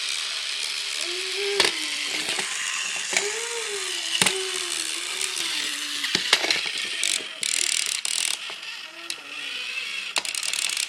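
Motorised toy train running, its small gears and wheels making a steady mechanical whirring clatter with scattered sharp clicks.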